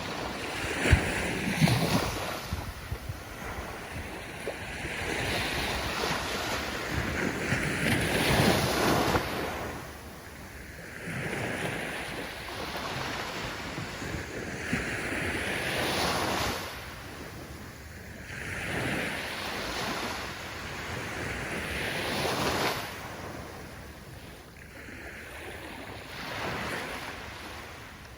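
Ocean waves breaking and washing up the shore, swelling and fading about five times as each wave comes in.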